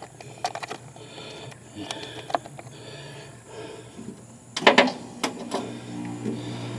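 Scattered clicks and knocks of small parts being handled while the starter relay is worked loose from an outboard motor, with a louder clatter of knocks a little past halfway. A low steady hum starts shortly after.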